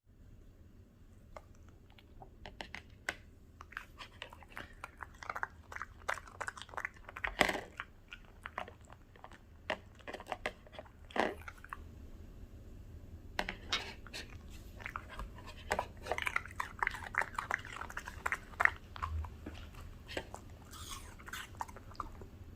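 A Bichon Frise dog chewing a piece of crunchy raw produce, a rapid run of crisp crunches and bites. The crunching breaks off about twelve seconds in, then starts again a moment later.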